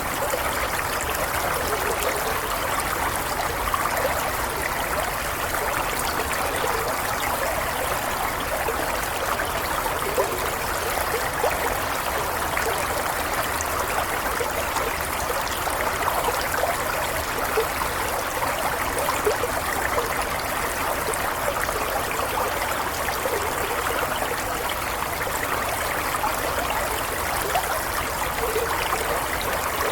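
Water of a stream flowing and trickling steadily, an unbroken rush with small splashing flickers.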